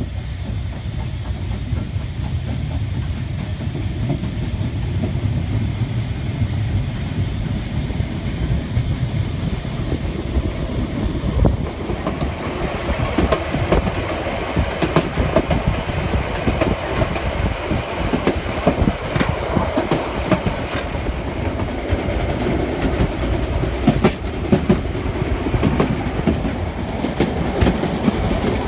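Narrow-gauge steam train heard from on board a coach: wheels running with a low rumble and clattering over rail joints. About twelve seconds in, the rattling and clicking grow louder and busier.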